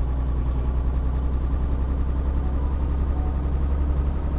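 A tanker truck's diesel engine running with a steady low drone.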